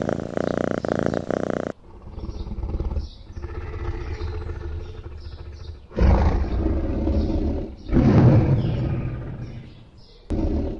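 A large animal gives two long, loud, deep roars, one after the other, with faint bird chirps behind. Before them, a different steady animal sound cuts off abruptly about two seconds in.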